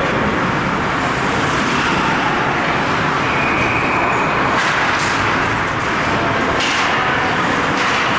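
Steady loud din of a hockey rink: crowd and rink noise with a few sharp clacks about halfway through and near the end.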